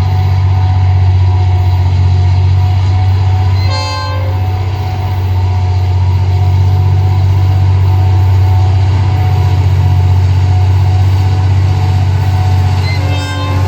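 Diesel freight locomotive running with a loud, steady, deep engine drone, sounding two short horn toots, one about four seconds in and one near the end.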